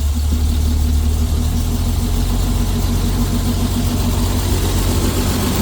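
Bedford RL truck's petrol six-cylinder engine running steadily at idle, having just caught after a hard start on a jump pack.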